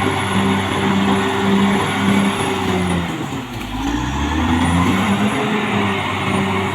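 Caterpillar D6R XL bulldozer's diesel engine running steadily as the machine works, its pitch dipping about halfway through and then climbing back up.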